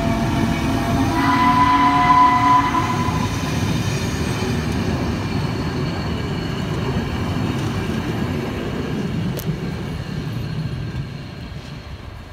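A train whistle sounds a chord of several notes in two blasts: a first that breaks off just after the start and a second that ends about three seconds in. It sounds over the rumble of passenger coaches rolling past on the rails, which fades as the train moves away.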